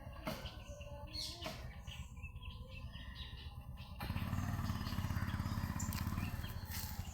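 Birds chirping in short, scattered calls over a low rumble that grows louder about four seconds in.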